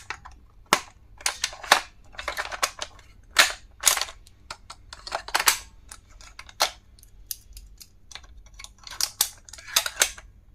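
Stationery items and their plastic packaging being handled during unboxing: irregular sharp clicks and snaps mixed with short bursts of crinkling.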